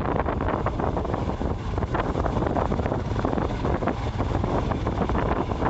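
Steady wind rushing over the microphone of a moving motorcycle, with the vehicle's running noise underneath.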